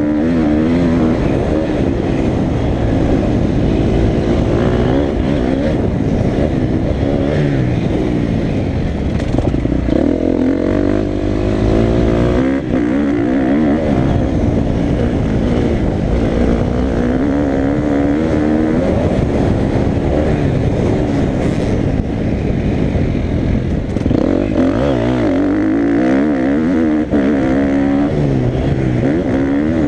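Motocross bike engine revving up and down over and over as it is ridden around a dirt track, the pitch climbing under throttle and dropping off between bursts.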